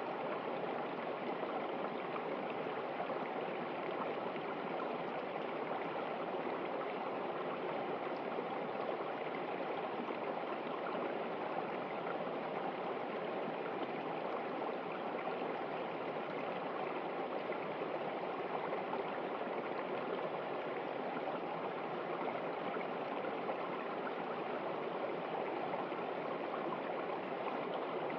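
River water running over rocks: a steady, even rushing and gurgling of flowing water.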